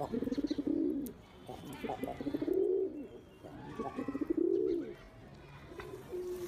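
White King pigeon cooing: three drawn-out, throbbing coos of about a second each that rise and fall in pitch, then a short coo near the end.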